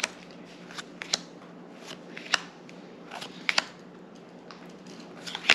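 Crackles and sharp clicks of a foil trading-card booster pack being opened and its cards handled, scattered irregularly, the loudest a little over two seconds in and about three and a half seconds in.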